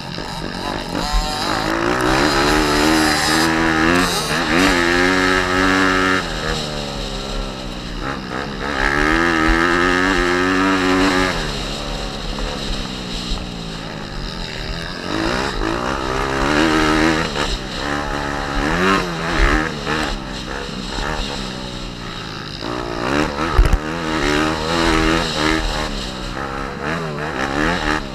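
Pit bike's single-cylinder four-stroke engine revving up and dropping back repeatedly, the pitch climbing hard and falling off every few seconds as the bike accelerates, shifts and brakes around a motocross track.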